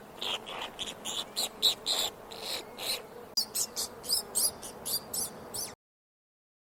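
A small animal's rapid series of short, high-pitched calls, several a second, stopping suddenly near the end.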